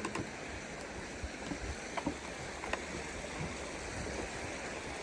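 Steady rushing outdoor background noise, with a few short faint clicks.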